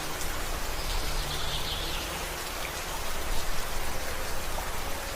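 Steady rain falling in a forest, a dense even hiss of drops.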